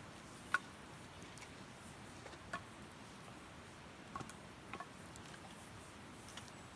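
Wood fire burning in a fire pit, with a soft steady background and a few sharp, irregular crackles and pops, the loudest about half a second in.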